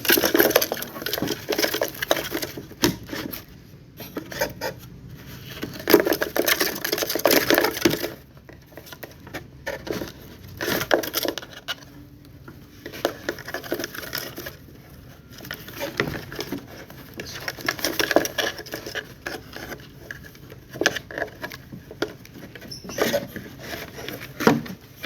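Irregular bursts of rustling, wing-flapping and knocking as a wild black-naped oriole is caught by hand inside its box cage.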